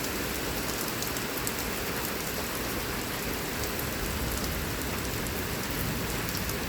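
Heavy rain falling steadily, pattering on nearby surfaces, with the drops' small ticks scattered through it.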